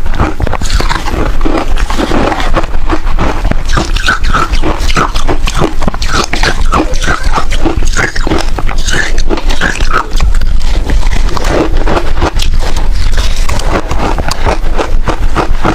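Close-miked chewing of freezer frost ice: rapid, continuous crunching with wet mouth sounds.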